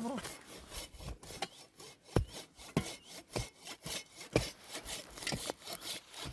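Hand saw cutting wood in repeated back-and-forth strokes, a few strokes a second, with some sharper knocks among them.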